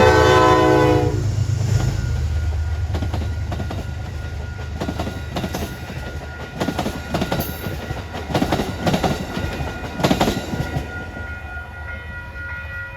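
A train's multi-tone horn sounds and cuts off about a second in as the locomotive passes. Then the wheels of the passing cars click-clack over the rail joints in irregular bunches, gradually fading away.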